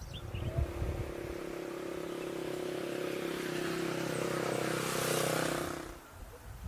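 A motor engine running with a steady hum and a rushing hiss that grows louder to a peak about five seconds in, then cuts off.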